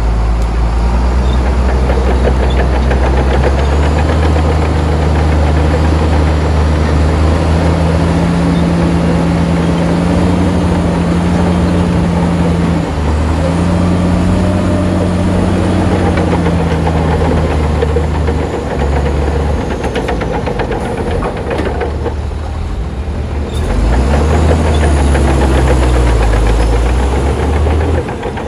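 Bulldozer diesel engine working under changing load, its pitch rising and shifting. It eases off briefly a little past two-thirds of the way through, then picks up again.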